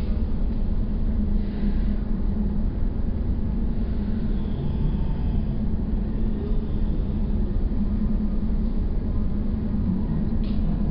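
Steady low rumble of a train heard from inside the carriage while it runs along, played at one-third of normal speed.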